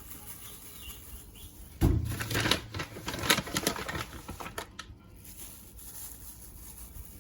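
A pan being handled on a stove: one heavy thump about two seconds in, then about two seconds of irregular clicking and rustling that dies away.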